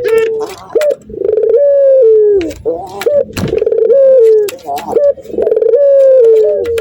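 Male Barbary dove (puter) giving its breeding-season courtship coo: three long, drawn-out coos that slide down in pitch at the end, with shorter notes between them.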